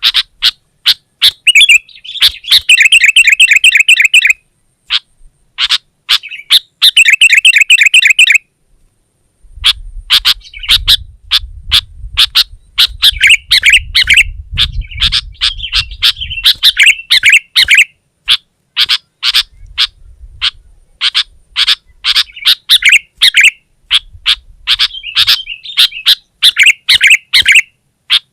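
Sooty-headed bulbul calling loudly and rapidly: a string of sharp chirps broken by two fast, rattling trills in the first half. After a brief pause it goes on in a dense, excited run of chirps.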